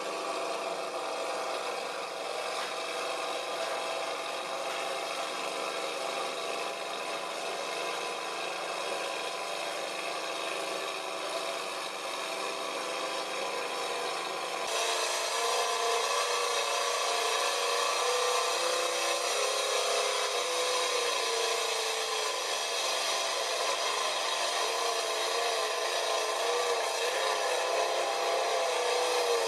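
Mud truck engine running hard at high revs, its pitch wavering up and down as the throttle and load change while it pushes through deep mud. About halfway through it abruptly gets louder.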